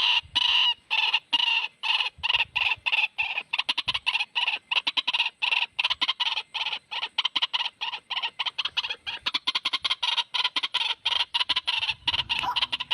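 White-breasted waterhen (ruak-ruak) calling: a long run of short repeated notes that gets faster as it goes on, from about three to about six a second.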